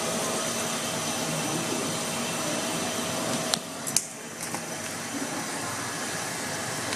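Steady rushing noise of a running HVAC unit's fan and moving air. Two sharp clicks come about halfway through, after which the noise is a little quieter.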